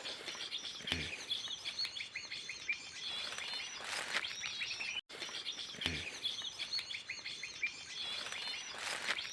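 Small birds chirping, with many short, quick calls overlapping, and a brief break about halfway through.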